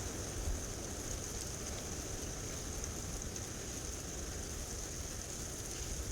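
Gusty wind blowing steadily, with a low rumble of wind buffeting the microphone.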